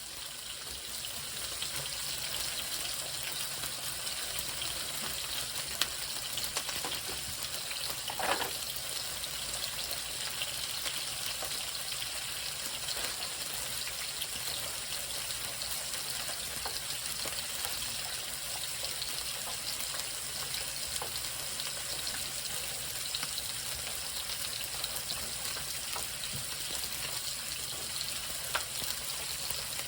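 Chicken frying in a pan, a steady sizzle, with one brief short sound about eight seconds in.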